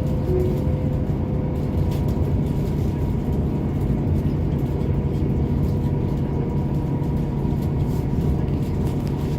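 Steady low rumble and drone of a train, with a constant hum that does not change in pitch or level.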